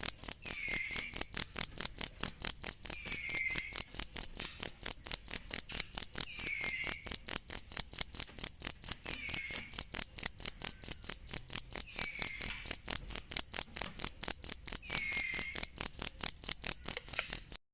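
Cricket chirping without pause, a high-pitched pulsed trill at about four to five pulses a second, with a fainter, lower falling call recurring about every two and a half seconds; the sound cuts off abruptly near the end.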